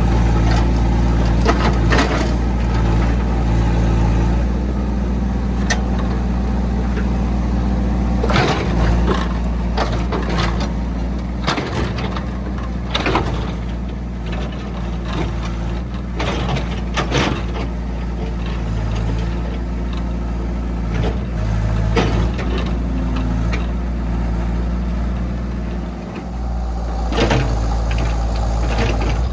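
Diesel engine of a piece of farm machinery running steadily, with repeated clanks and knocks of the machine working.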